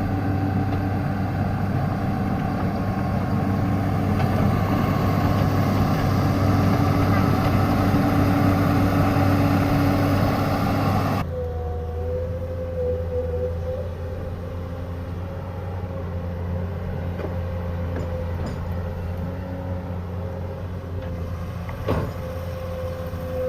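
Excavator's diesel engine running steadily under work. About eleven seconds in the sound drops abruptly to a quieter engine with a steady whine.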